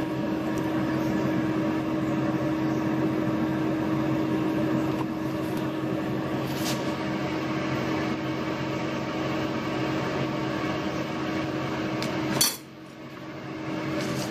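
A kitchen appliance hums steadily with a low held tone, with a few light clinks of utensils. About twelve seconds in it cuts off suddenly with a sharp click.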